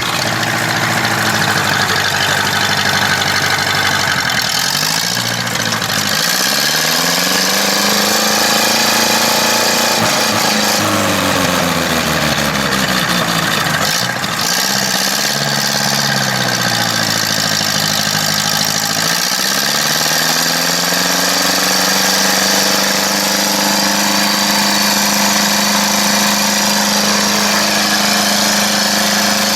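Tractor engine revving, its pitch falling and rising again several times over a few seconds each, then holding steady at speed for the last several seconds.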